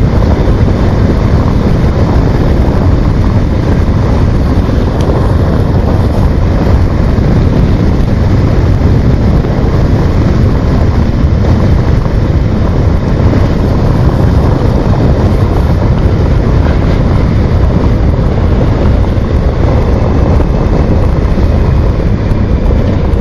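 Steady wind rush buffeting the microphone of a motorcycle under way, with road and engine noise underneath and no clear engine note standing out.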